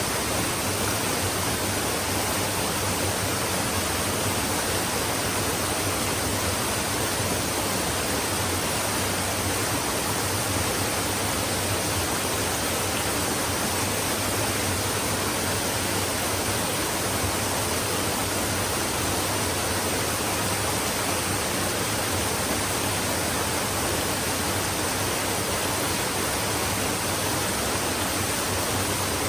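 Flowing stream water, a steady, even rush.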